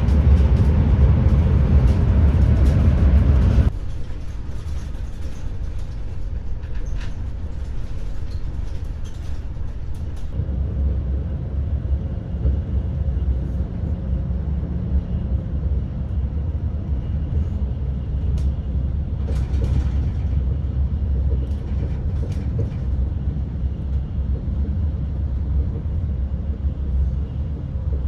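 Cabin running noise of an ETR600 high-speed train in motion: a steady low rumble with hiss. It is louder and brighter for the first few seconds, then drops abruptly to a quieter, even rumble.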